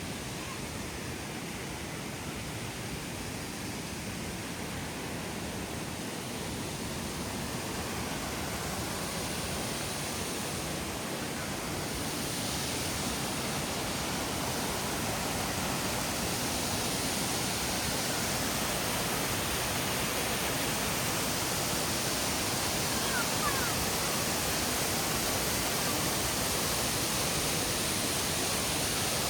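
Rushing water of a waterfall: a steady roar that grows gradually louder and brighter, strongest in the second half.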